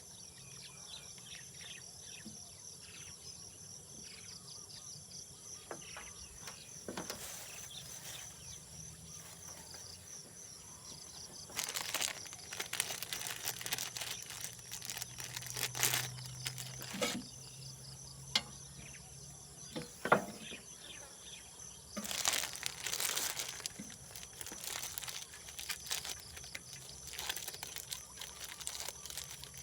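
Crinkling and rustling of something like plastic packaging being handled, in two longer spells with a few sharp clicks between. Under it, insects chirr steadily at a high pitch.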